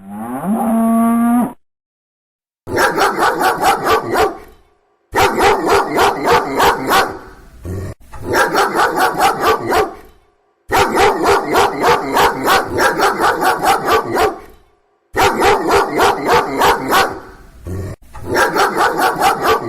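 A cow moos once at the start, its pitch rising. Then a dog barks in quick bouts of about six barks a second, each bout lasting one to three seconds with short gaps between.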